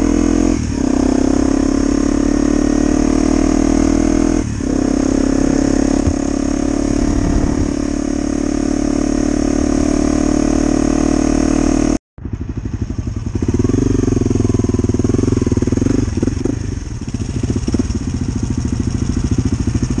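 Honda CRF250L single-cylinder engine under way, rising in pitch with two brief dips in the first five seconds as it shifts up. After an abrupt cut about twelve seconds in, it runs at low revs.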